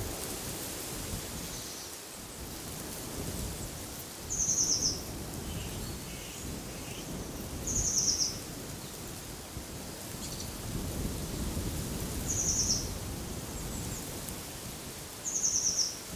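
Wind blowing steadily with a low rumble, while a songbird repeats the same short, high, rapid trill four times, about every three to four seconds; fainter bird calls sound once a third of the way in.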